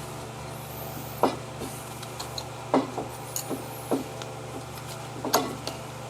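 Scattered clinks and knocks of brake pads and hardware being handled and fitted at a disc brake caliper, about five sharper ones a second or so apart, with a steady low hum behind them.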